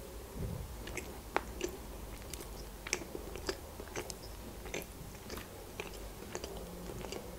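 Close-miked chewing of a soft Barni sponge cake: scattered faint wet mouth clicks and smacks as it is bitten and chewed.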